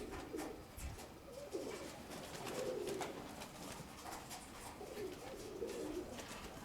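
Domestic pigeons cooing, a run of low warbling coos repeating every second or so, with wind buffeting the microphone underneath.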